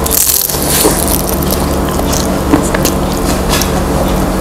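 A crispy deep-fried lumpia (spring roll) crunching as it is bitten into at the start and then chewed close to the microphone, with many sharp crackles of the fried wrapper.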